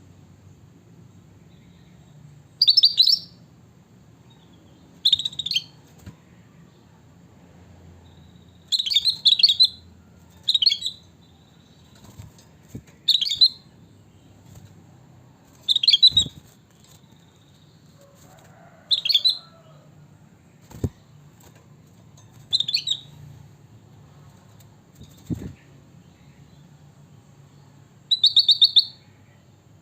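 A kutilang batik bulbul giving short, bright chirping phrases about every two to three seconds, the last one a quick rattling run near the end. A few sharp knocks sound in between.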